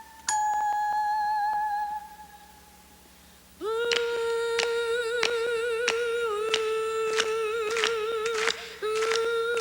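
Woman humming long held notes without words. A higher steady note dies away about two seconds in; after a short near-quiet pause a lower note with vibrato starts and holds, breaking off briefly near the end and resuming. Sharp clicks sound over the held note every half second or so.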